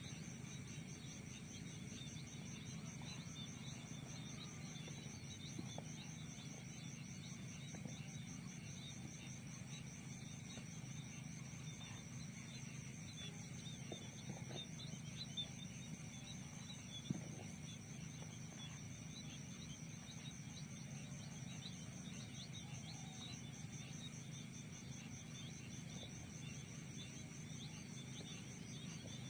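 Faint outdoor field ambience: an insect trills steadily at a high pitch, with many short chirps scattered throughout and a low steady rumble underneath. There is a single sharp click about 17 seconds in.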